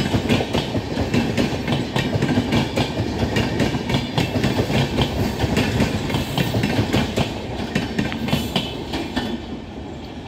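Passenger coaches of a passing express train: wheels clicking rapidly over rail joints over a steady rolling rumble, fading near the end as the last coach goes by.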